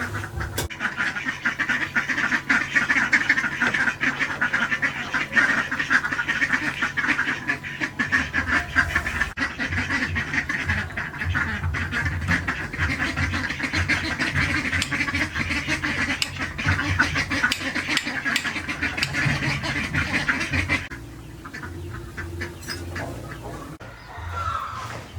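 A flock of ducks quacking in a dense, continuous chatter, which stops abruptly about four seconds before the end.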